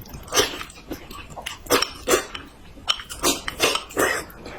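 Close-miked eating: a string of about ten short, wet chewing and mouth sounds.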